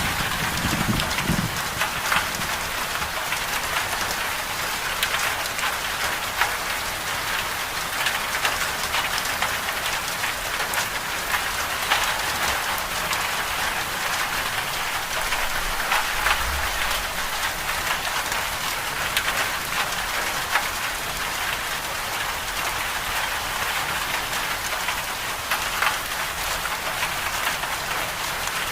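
Steady rain falling on a surface, with scattered sharp drop ticks. The tail of a low thunder rumble fades out in the first second or so.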